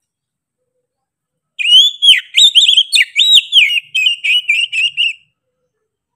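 Oriental magpie-robin (kacer) singing one loud phrase of sliding whistled notes, about three and a half seconds long, the last part quicker and more chattering.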